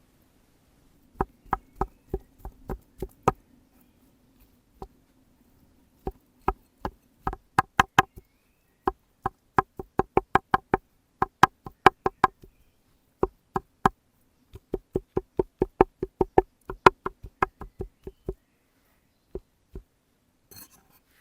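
Knife chopping on a cutting board: runs of sharp, even strokes about three a second, stopping briefly and starting again several times, with a few single strokes near the end.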